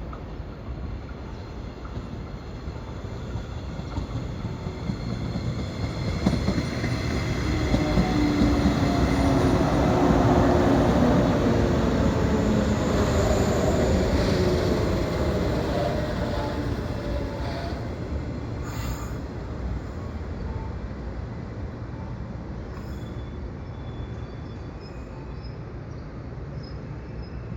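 A JR 113-series electric multiple unit running into the station and braking to a stop. It grows louder as it comes alongside, about a third of the way in. Then its tones fall as it slows, with wheel and brake squeal, and the sound eases off as the train comes to rest.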